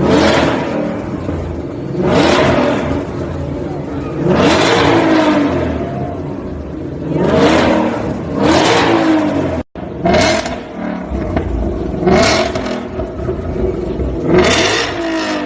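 Ford Mustang Shelby GT500's supercharged 5.2-litre V8 revved in short blips through its exhaust, each rev climbing and falling back, about one every two seconds. The sound drops out for an instant about two-thirds of the way through.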